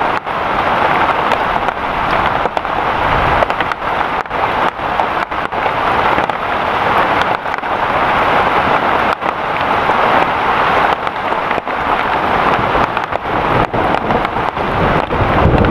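Heavy rain falling hard and steadily, a dense continuous patter.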